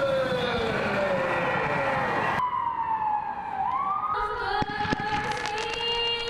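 Sirens wailing, their long tones gliding slowly down in pitch, breaking off abruptly a little before halfway, then a siren tone that sinks, swoops up again and holds.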